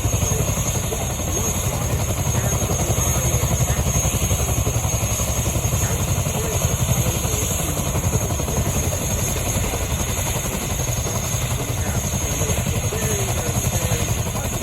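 RAF Chinook tandem-rotor helicopter running, with the rapid low beat of its rotors and a steady high whine.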